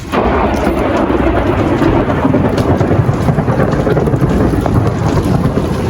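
Heavy thunderstorm: a loud, steady downpour with a deep low rumble underneath.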